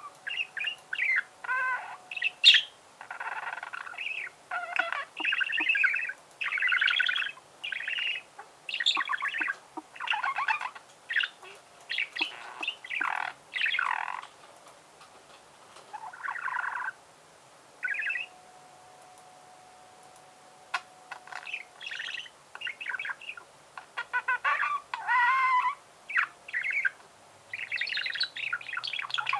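Budgerigar warbling: a fast, chattering run of chirps, squeaks and trilled notes, broken by a lull of a few seconds in the middle before the chatter resumes. A sharp click about two and a half seconds in is the loudest single sound.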